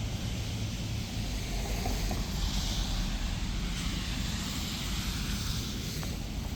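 Steady low wind rumble on the microphone and rain hiss, with a car passing on the wet street, its tyres swishing louder from about two and a half seconds in to about five seconds in.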